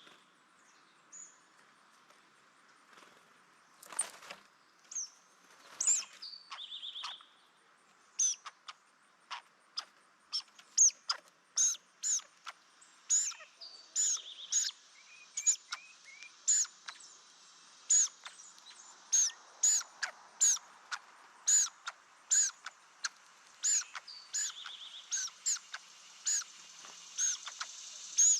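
Small birds calling with repeated short, sharp, high chirps. They come sparsely at first, then steadily about once or twice a second from about eight seconds in, with a few buzzier notes mixed in.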